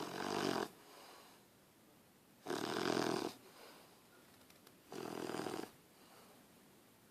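English bulldog puppy snoring in its sleep: three snores, each under a second long, about two and a half seconds apart.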